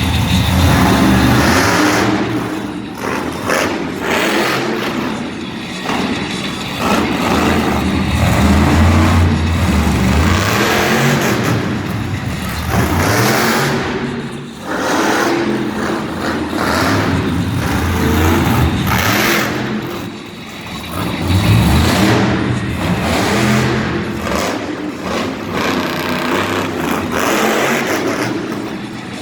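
Monster truck engines revving hard, the engine noise surging and falling away again and again.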